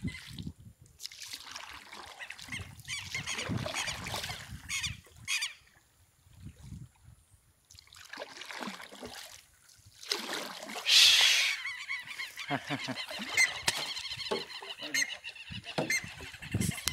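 Birds honking, calls repeating through the stretch, with a brief loud rushing noise about eleven seconds in.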